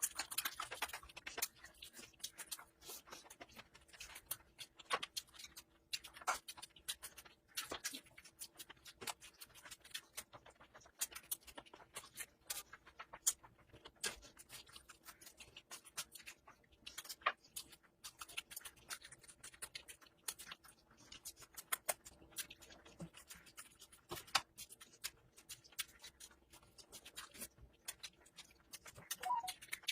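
Close-miked eating sounds of a person chewing rice and curry: an irregular stream of small sharp clicks and mouth smacks.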